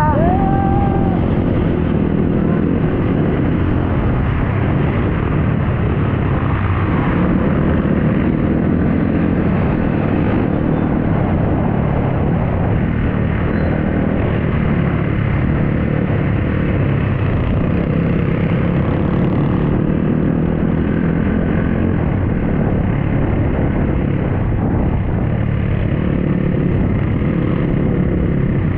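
Dirt bike engine running steadily under way, with an even rush of noise over it.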